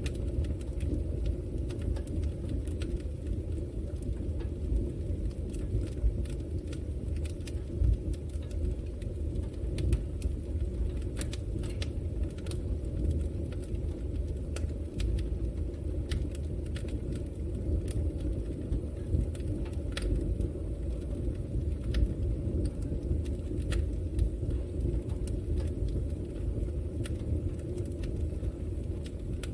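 Fire burning in a fireplace: a steady low rumble of the flames with irregular sharp crackles and pops.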